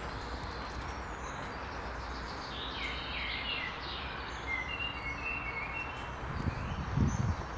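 Steady outdoor background noise with a small songbird chirping and trilling in the middle. Footsteps on a leaf-strewn dirt path begin near the end.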